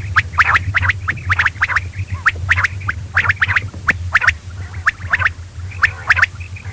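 Quail calling: a rapid, irregular run of short, sharp chirping notes, several a second, over a steady low hum.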